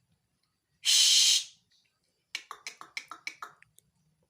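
A pet talking starling (jalak) gives a loud harsh hiss lasting about half a second, then a fast run of clicking, chattering notes about a second later.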